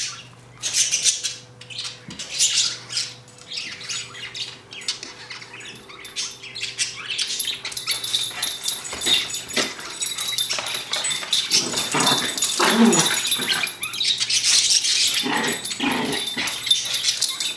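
Toy poodle and standard poodle puppy playing, with repeated short barks and yips that come thicker in the second half.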